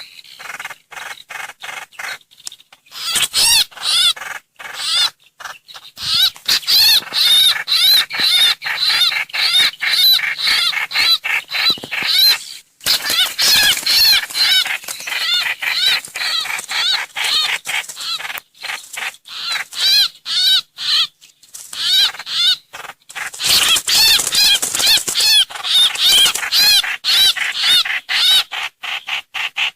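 Trao trảo (hoành hoạch) bird call played as a trapping lure recording: loud, rapid runs of chattering, whistled notes, several a second, broken by brief pauses.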